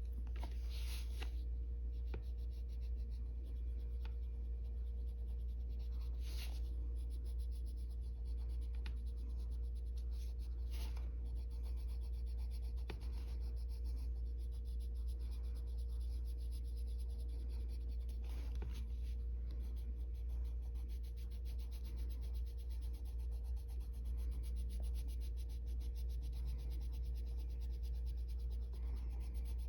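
Coloured pencil scratching and rubbing across paper in many short strokes as colour is laid down. A steady low hum runs underneath.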